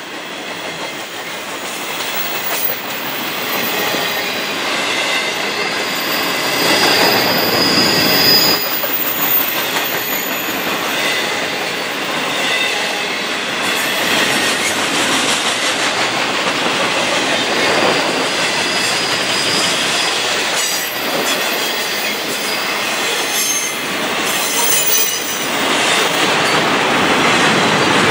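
Double-stack well cars of a BNSF freight train rolling past close by: a steady rumble and clatter of steel wheels on the rails. High-pitched wheel squeal comes and goes over it, most plainly about seven seconds in.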